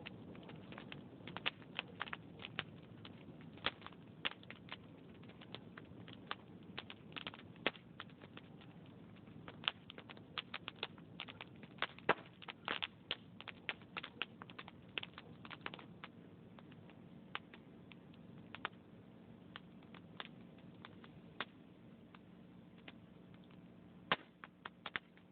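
Wood fire in a fireplace crackling: irregular sharp pops and snaps from burning logs, thickest in the middle and thinning out toward the end, over a faint low rumble.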